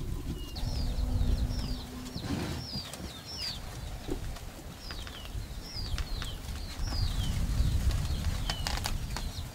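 Birds chirping: a run of short, high calls that slide downward, about two a second, over a low rumble.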